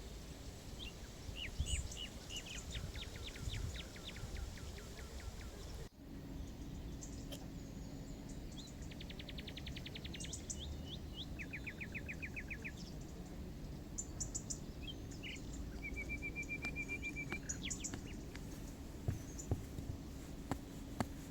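Small songbirds singing in woodland: a quick run of falling notes near the start, then several fast trills over the next seconds, over a steady faint low hum.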